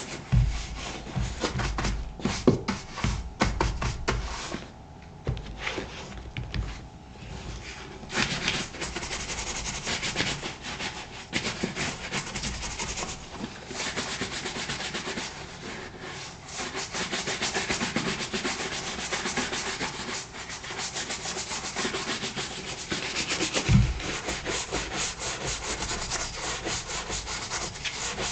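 A brush swept in quick strokes over a black leather boot to bring up a shine after shoe cream has been applied. There are a few dull knocks in the first few seconds and one near the end.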